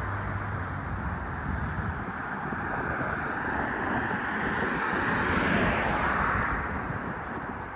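A passing motor vehicle's road noise, swelling to its loudest about five to six seconds in and then fading.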